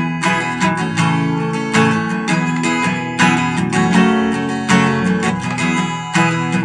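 Acoustic guitar strummed in a steady, even rhythm of chords, played as an instrumental link with no singing.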